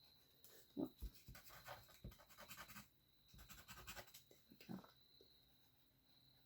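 Faint scratching of a drawing tool moving over paper in quick short strokes, in two runs with a short pause between them, as lines are traced over pencil marks.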